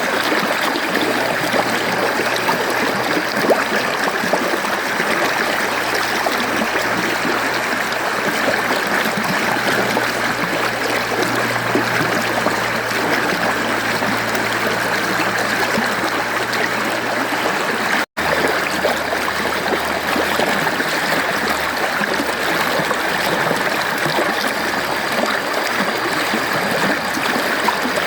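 Mountain stream flowing steadily over rocks, a continuous rushing and burbling of water. About two-thirds of the way through, the sound cuts out for a split second and comes straight back.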